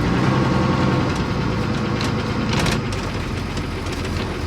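A heavy engine running steadily with a low rumble, louder for the first three seconds and then easing off a little.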